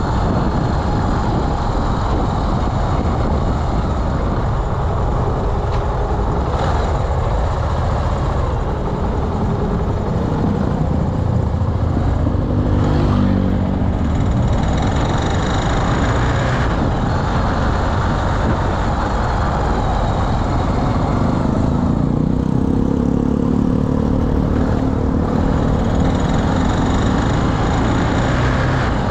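Carburetted Honda BeAT scooter's small single-cylinder engine running on the move, with wind and road noise over the microphone; the engine note rises and falls with the throttle around the middle and again near the end.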